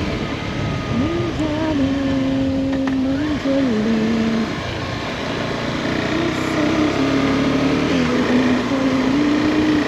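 Motorcycle engine running under way, its pitch stepping up and down with throttle and gear changes, over a steady rushing noise.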